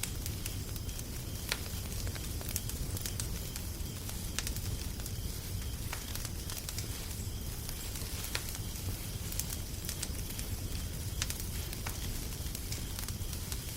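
Wood fire crackling: irregular sharp pops and snaps over a steady low hiss and rumble.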